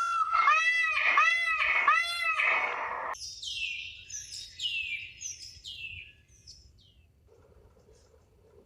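Bird calls: four loud, evenly spaced calls that each rise and fall in pitch. After an abrupt cut comes a run of quick, high, downward-sweeping chirps that fade out about six seconds in.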